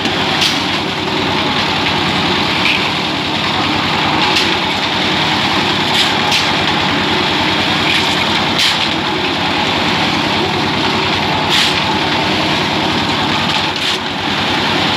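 Concrete mixer machine's engine running steadily while it mixes a batch, with a few short knocks and clatters scattered through it.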